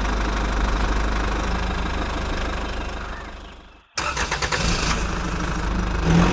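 Motor running steadily with a low rumble. It fades out just before four seconds in, then cuts back in suddenly with a run of quick clicks.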